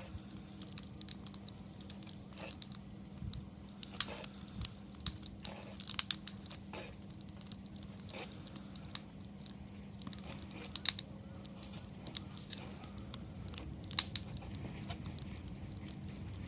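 Wood fire crackling: irregular sharp pops and snaps, a few of them standing out louder.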